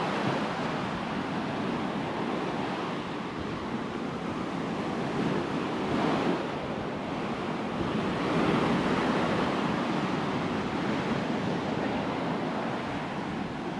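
Ocean surf breaking and washing up on a sandy beach, a steady rushing wash that swells louder about halfway through and again shortly after.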